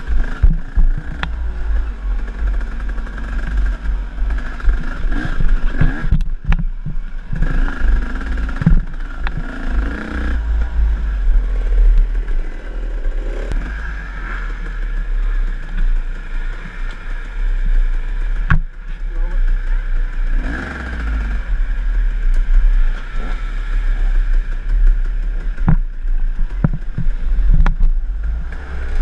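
KTM enduro dirt bike engine revving up and down as it rides a trail, with a heavy low rumble of wind on the microphone and scattered sharp knocks as the bike goes over rough ground.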